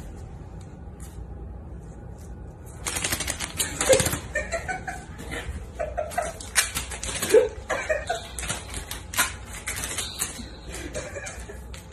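Paper stuck to a cat's paws rustling and scraping on a tile floor as the cat high-steps and shakes its feet. It is a rapid, uneven run of crisp rustles and clicks that starts about three seconds in.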